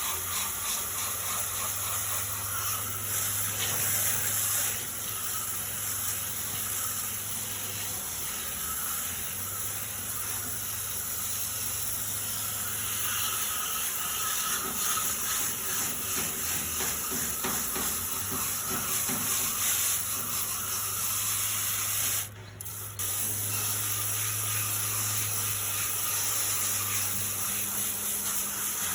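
Garden hose spraying water onto an air conditioner condenser's coils, rinsing off the coil cleaner: a steady hiss of water, with a brief break a little over two-thirds of the way through.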